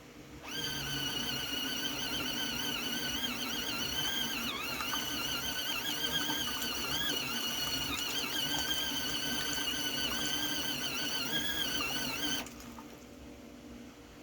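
Small electric motor of a mini portable folding washing machine running with a high whine that wavers in pitch as it churns. It starts sharply about half a second in and cuts off suddenly near the end.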